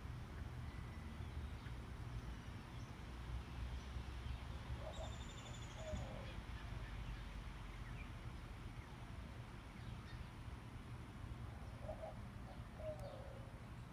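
Quiet outdoor ambience: a steady low hum, with a bird calling twice, once about five seconds in and again near the end.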